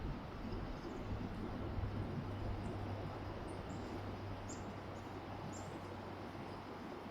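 Small birds giving a few short, high chirps, scattered through the middle, over a steady low rumble with a faint hum.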